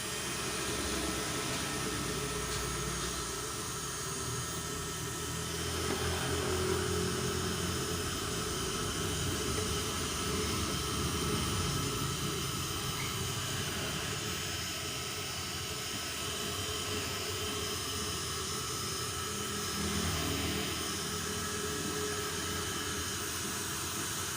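Heat gun blowing hot air steadily, softening the old sealant glue in a car headlamp housing so the lens can be pressed back on.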